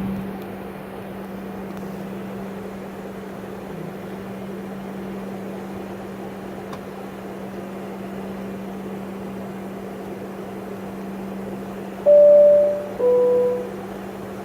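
Steady low hum inside the cabin of an MD-83 airliner, broken about twelve seconds in by the loudest sound: a two-note high-low cabin chime, each note lasting about a second.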